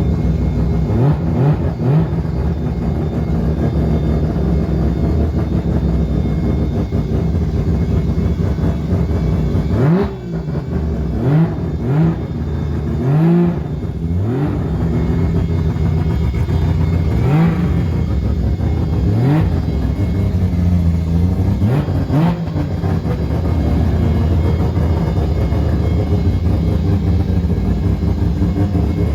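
Car engine idling with short throttle blips, several in quick succession about a second in, a cluster from about ten to fourteen seconds in, and a few more spaced out after that.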